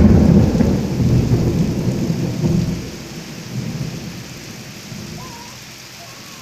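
A thunderclap that breaks in suddenly and rumbles low, fading out over about three seconds, over steady rain falling.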